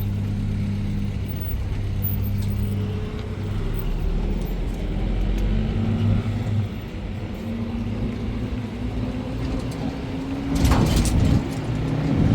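A motor vehicle's engine running steadily with a low hum, and a short clatter of knocks about ten and a half seconds in.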